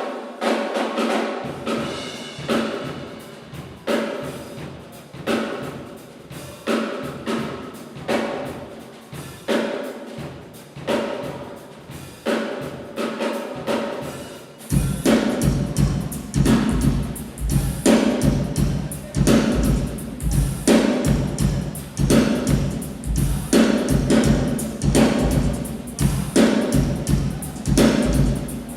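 A drum kit being played in a steady groove, with snare, tom and cymbal strokes over a regular accented beat. About halfway through a heavy low bass comes in and the playing gets louder.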